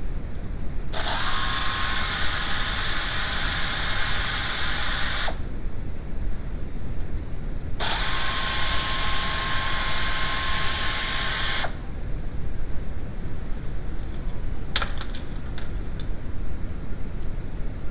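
A hand-held power or air tool runs in two bursts of about four seconds each, a hiss with a thin steady whine in it, over a steady low rumble; a few sharp clicks follow near the end.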